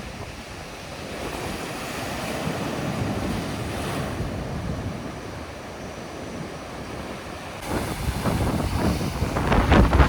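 Sea surf washing onto a beach, with wind buffeting the microphone. Near the end it turns suddenly louder and gustier.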